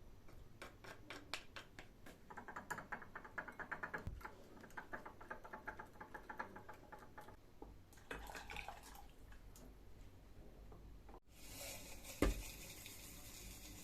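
Rapid light clicking and pattering of kitchen prep for several seconds. After a sudden cut, a pan sizzles steadily, with one sharp knock a second later.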